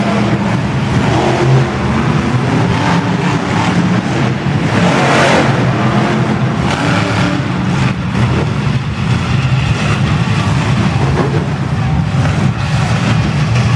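Monster truck engine running loudly, revving up about five seconds in.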